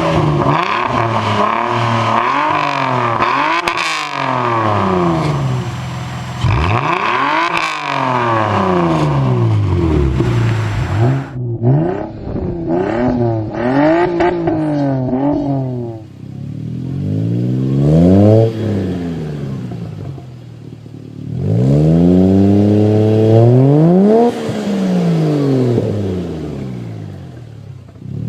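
Lexus SC300 straight-six engines revved repeatedly through their exhausts, the pitch climbing and falling with each blip of the throttle. The sound changes abruptly about twelve and again about sixteen seconds in, as one car's recording gives way to another.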